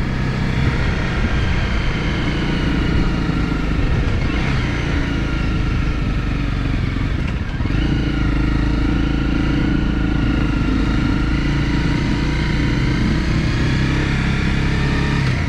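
Honda CRF250 single-cylinder four-stroke motorcycle engine running under way. The engine note dips briefly about halfway through, then holds steady.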